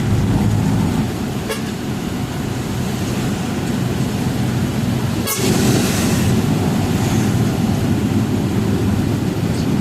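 Truck engine running steadily on the road, with a sharp click about five seconds in.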